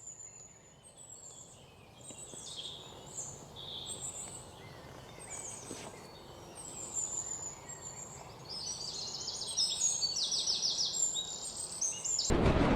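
Several birds chirping and trilling over a faint steady background, the calls growing busier and louder. Near the end a loud rushing noise cuts in suddenly.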